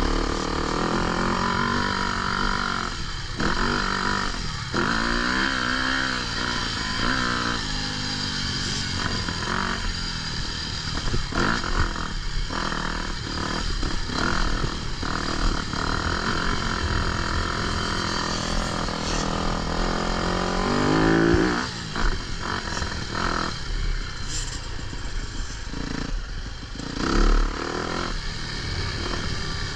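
Motocross dirt bike engine revving hard and easing off over and over, its pitch climbing and falling, with brief cuts in the throttle.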